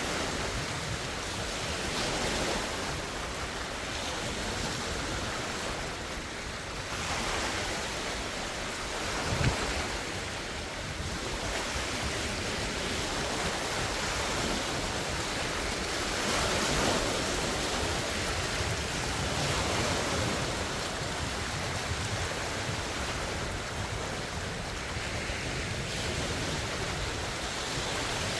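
Large wind-driven lake waves breaking and washing ashore: a continuous rush of surf that swells and eases every few seconds, with wind buffeting the phone's microphone and a brief low thump about nine seconds in.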